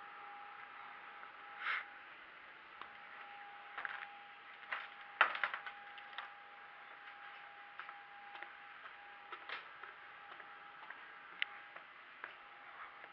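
Scattered light clicks and knocks, the loudest about five seconds in, over a faint steady high hum.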